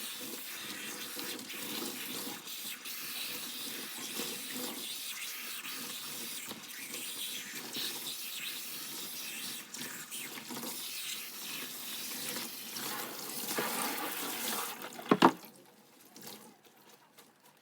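Water running steadily, stopping near the end, followed by one sharp knock.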